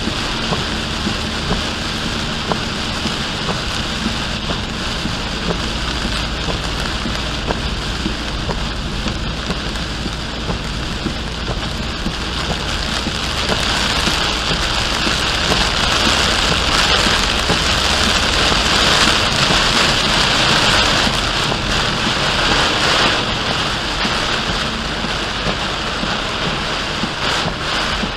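Heavy rain pelting a car driving at highway speed, over a steady low hum of engine and tyres. The rain grows louder about halfway through and eases again a few seconds before the end.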